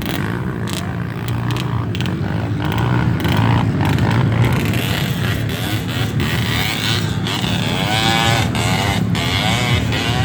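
Off-road dirt bike engines running steadily.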